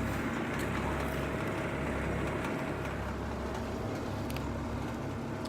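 Outdoor air conditioner condensing units running: a steady low hum with constant tones and fan noise.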